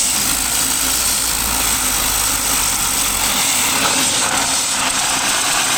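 High-pressure washer spraying water, a steady hiss over the hum of its running pump motor; a low rumble drops away about three and a half seconds in.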